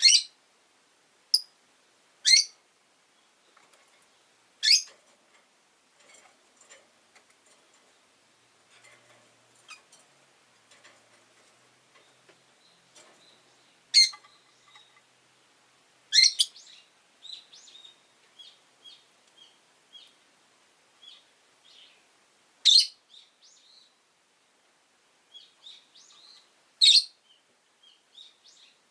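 Rosy-faced lovebirds calling: about eight brief, loud, high-pitched chirps at irregular intervals of a few seconds, with soft twittering chatter between them.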